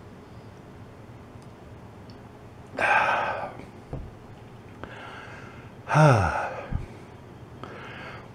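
A man tasting soda lets out a breathy exhale about three seconds in, then a short voiced sound falling in pitch about six seconds in, like an appreciative 'ahh' or 'mmm'. Two soft low thumps fall between them.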